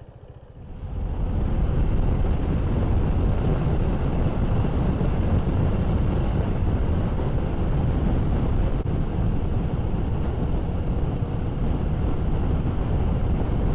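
KTM 390 Duke single-cylinder motorcycle running at road speed, with wind rushing over the microphone. The rumble builds about a second in and then holds steady.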